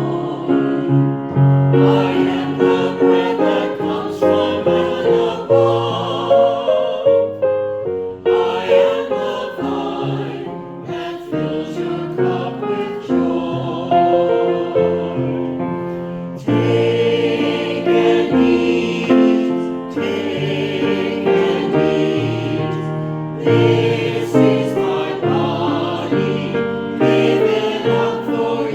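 A choir singing a worship song.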